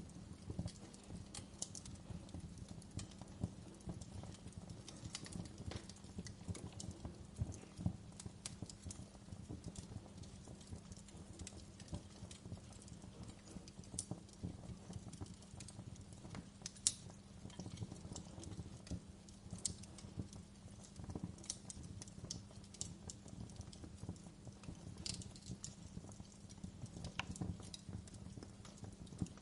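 Wood fire crackling in a fireplace: irregular sharp pops and snaps over a steady low rumble of the flames, with one louder pop about seventeen seconds in.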